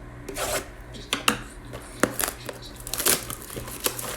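Plastic wrapping on trading-card blaster boxes and packs crinkling and tearing as they are opened, with sharp clicks and taps of cardboard and cards being handled.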